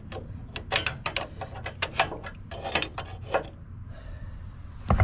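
Irregular clicks and rubbing of metal parts being handled, over a steady low hum; the clicks come thick for the first three seconds or so, then stop, with one last sharp click near the end.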